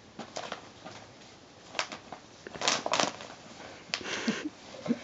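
Christmas wrapping paper crinkling and rustling in several short bursts, the loudest about two and a half seconds in.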